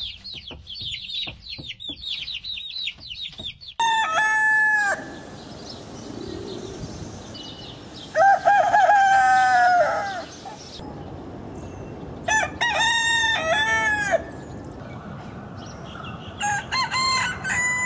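Chicks peeping rapidly and continuously, then a rooster crowing four times, each crow a long pitched call of a second or two.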